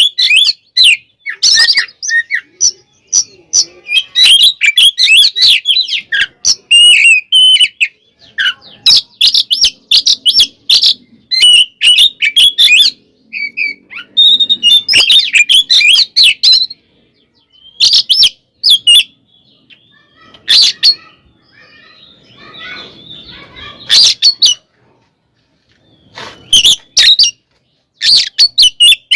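Oriental magpie-robin (kacer) in loud, fast fighting song: rapid, varied whistled phrases in bursts of a second or two with short pauses, going quieter for a few seconds past the middle.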